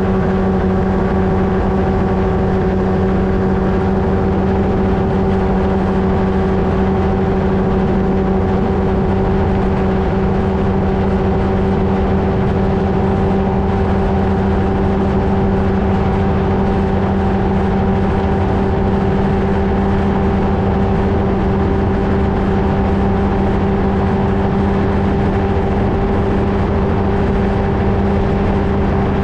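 Flightstar 2 ultralight's engine and propeller running steadily at constant power, a loud unchanging drone with a low steady tone over a rushing noise.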